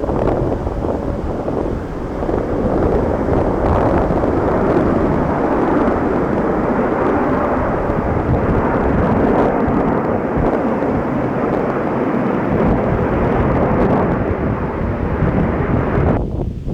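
Steady rumble of a Boeing 777 jet airliner's engines on final approach; it drops away sharply near the end.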